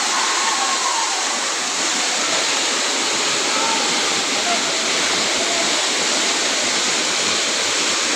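A waterfall rushing steadily, a dense, even roar of falling water.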